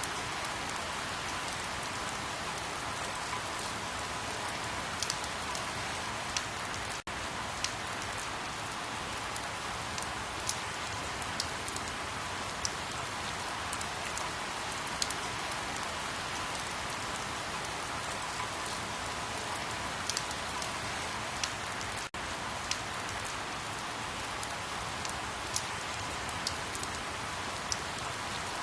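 Steady rain falling on a surface: an even hiss with scattered sharper drop ticks, dipping for an instant twice.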